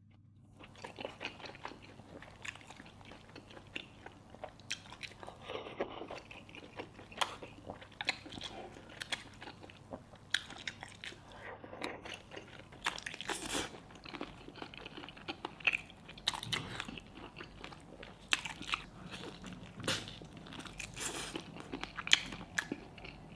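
Close-miked eating: irregular bites and chewing with small wet clicks and crunches, at no steady rhythm.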